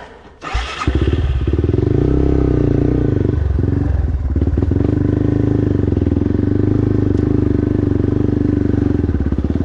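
Dirt bike engine that comes in suddenly about a second in and then runs loud and steady at low revs, close by, with a slight dip in the middle.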